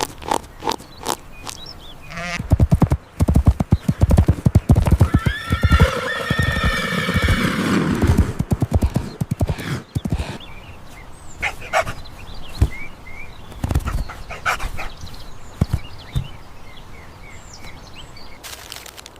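Horse hooves clip-clopping, with a long whinny that falls in pitch partway through, followed by more scattered hoofbeats.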